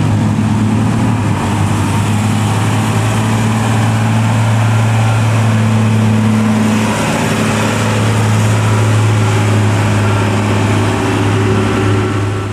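Heavy diesel truck engine pulling hard under load up a steep hill, a loud, steady low drone at an even pitch that falls away near the end.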